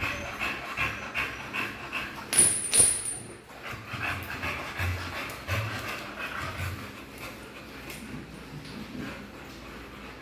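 A pet dog panting in quick, even breaths, with two loud sharp knocks about two and a half seconds in.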